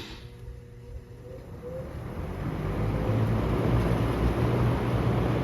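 Lakewood box fan switched on high: a click, then the motor spins up with a faint rising whine and the rush of air from the blades builds over about three seconds to a steady level, with a low hum. The motor is one the owner believes is blown and about to fail.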